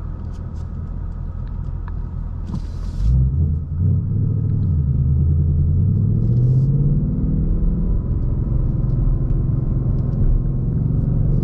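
2021 Ford Mustang Mach 1's 5.0-litre V8 and exhaust in track mode, heard from inside the cabin. It drones at low revs, then about three seconds in grows louder, and the revs climb steadily as the car accelerates under load.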